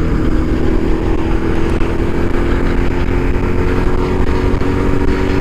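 Motorcycle engine running at a steady cruising speed, its note holding level, over heavy wind rush on the microphone.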